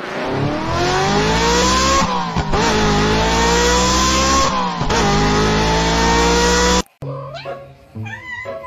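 Car engine sound effect accelerating hard through the gears: the pitch climbs, drops at two gear changes and climbs again, then cuts off abruptly about seven seconds in. Near the end, a kitten meows.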